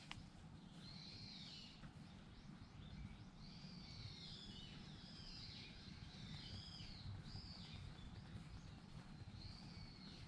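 Birds calling again and again, with high swooping calls, over a faint low rumble, with one sharp snap right at the start.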